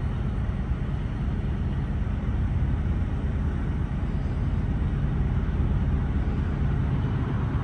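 Steady low rumble of a BNSF autorack freight train's diesel locomotives running.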